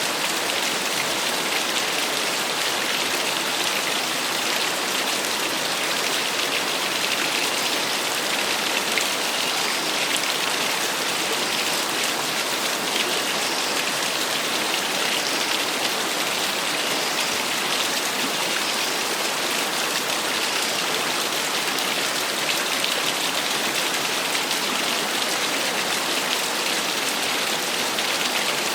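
Small waterfall: water splashing and rushing steadily, an even hiss with no pauses.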